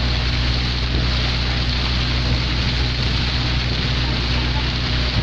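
A steady motor hum under a constant wash of noise.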